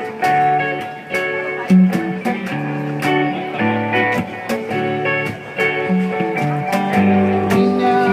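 Live band playing an instrumental passage of a song: strummed and plucked guitar with a steady beat of hand percussion.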